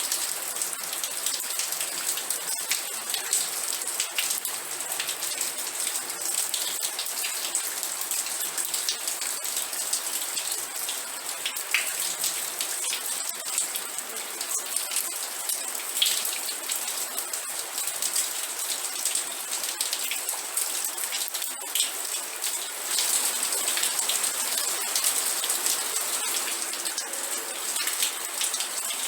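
Steady rain falling, a dense hiss of drops with fine close patter of individual drops hitting a surface.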